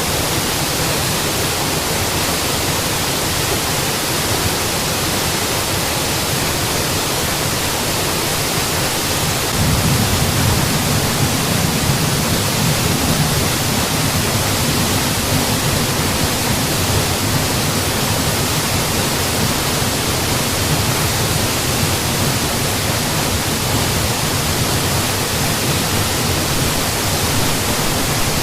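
Waterfall: a steady, full rush of falling water, with a deeper, slightly louder surge in the low end about a third of the way in.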